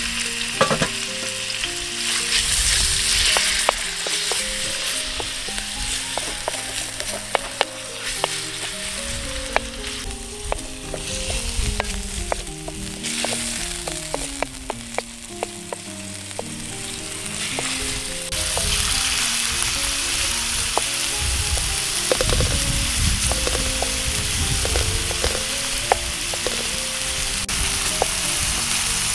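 Chicken breast pieces sizzling in hot oil in a steel frying pan, with a wooden spatula tapping and scraping the pan as they are stirred. The sizzle grows louder about two-thirds of the way through.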